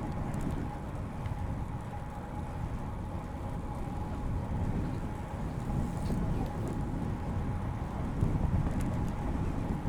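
Wind buffeting a chest-mounted microphone and tyres rolling on pavement while riding a road bicycle, giving an uneven low rumble with a thin steady hum underneath.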